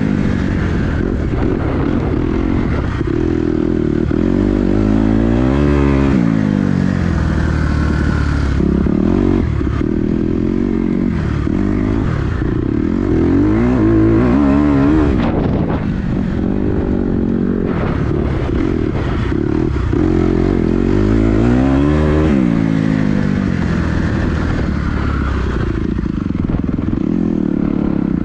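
Dirt bike engine revving up and dropping back again and again: the pitch climbs on each acceleration and falls off between them, as on a ride around a tight corner track.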